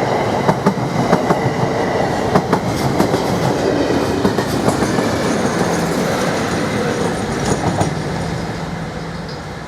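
Diesel-hauled train, a Class 56 and a Class 50 locomotive dragging a Class 720 electric unit, running past with wheels clicking over rail joints. The clicking is densest in the first few seconds, and the sound fades away near the end as the train moves off.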